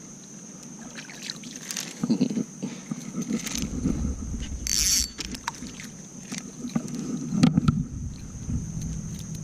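Shallow river water splashing and sloshing in irregular surges, with small clicks of handled gear, as an angler wades the river. A brief bright hiss comes about five seconds in, over a steady high-pitched whine in the background.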